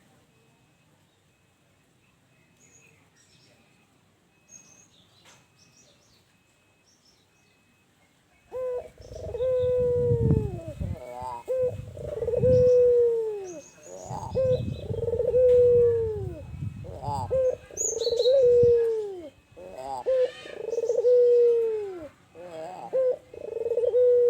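Albino puter (ringneck dove) cooing its song: a run of about six loud, low coos, each held and then falling away, repeated every two to three seconds. They start about a third of the way in, after a quiet stretch with faint chirps of small birds.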